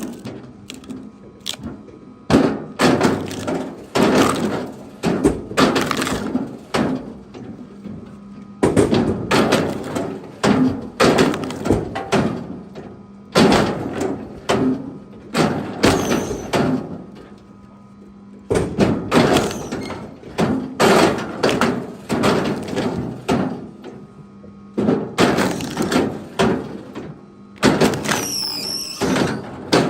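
Chunks of wood knocking and thudding against each other, over and over in clattering bursts with short pauses, as cut firewood is handled and thrown onto a pile.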